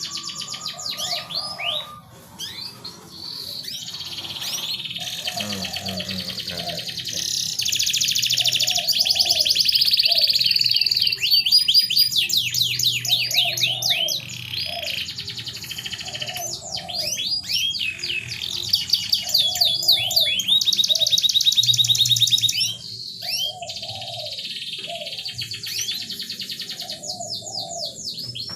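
Canary singing: long runs of fast rolling trills and sharp chirps, loudest in two stretches in the middle, over a lower short note repeating about every second and a half.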